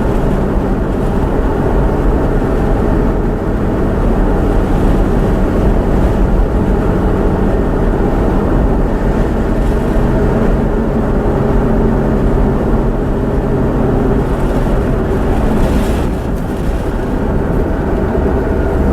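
Steady rumble of a car driving, an engine hum with steady low tones that runs on without a break.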